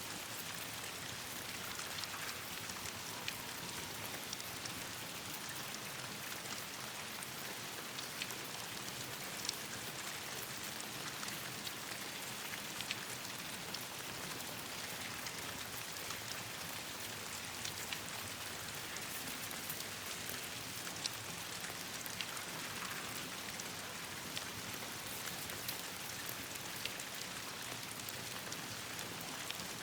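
Steady rain falling on leaves and branches, an even hiss with many scattered sharp ticks of single drops.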